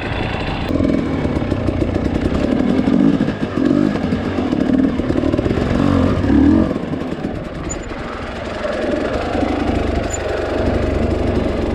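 Two-stroke dirt bike engine being revved in repeated short bursts and dropping back, eases off for a couple of seconds past the middle, then picks up again.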